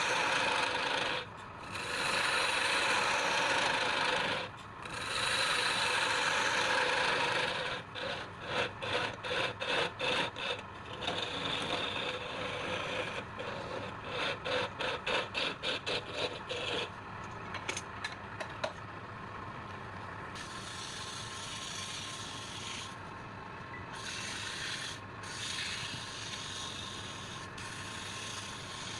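Wood being worked on a turning lathe: a tool or abrasive rubs loudly against the spinning wood in three long passes, then in two runs of short quick strokes. After that the lathe runs on more quietly.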